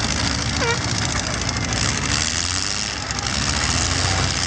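Demolition derby car engines running together in a loud, steady din, with a short high pitched cry about a second in.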